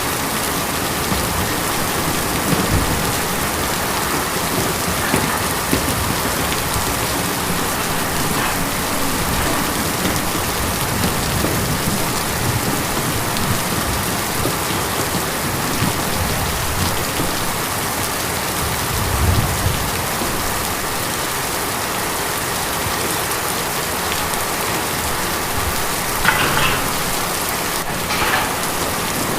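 Steady rain falling on tin, a dense even patter with a few louder single drops or knocks near the end.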